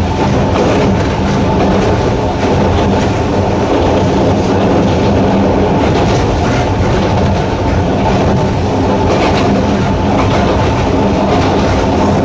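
Sanki Railway Hokusei Line narrow-gauge train running steadily on its rails, with a steady low hum from its nose-suspended traction motors and faint clicks from the wheels over the track.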